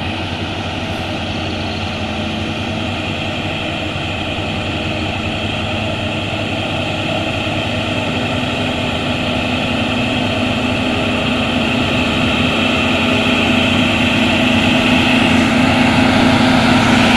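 Truck engine running steadily under load on a steep climb, growing gradually louder as it comes closer.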